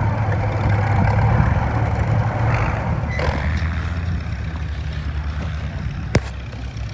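Farmall M tractor engine running hard under load on a pull, loudest early on and easing off toward the end. A brief hiss comes about three seconds in and a single sharp crack about six seconds in.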